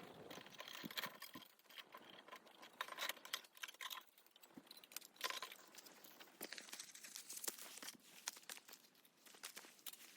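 Irregular crinkling and rustling with many small sharp clicks.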